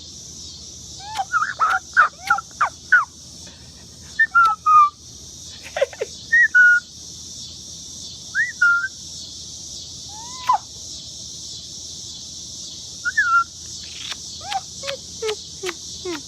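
Short whistled bird calls and chirps, each a quick glide in pitch: a quick string of about six, then scattered single calls, then another string near the end.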